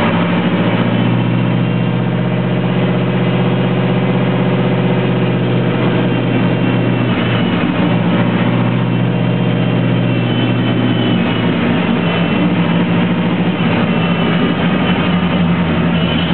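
Ford 302 V8 engine running steadily, heard from inside the car's cabin while driving at street speed. Its note changes about eleven seconds in.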